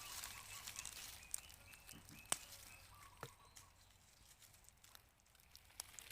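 Quiet outdoor ambience with scattered small clicks and rustles and a few faint short chirps, growing quieter toward the end.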